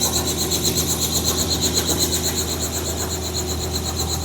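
Robinson R44 helicopter running on the ground: a steady low drone with a fast, even rotor beat.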